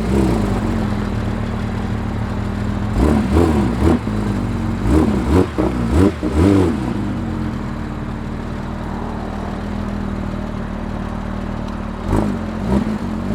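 A car engine idling steadily, blipped several times so its pitch rises and falls: a burst of revs about three seconds in, more between five and seven seconds, and again near the end.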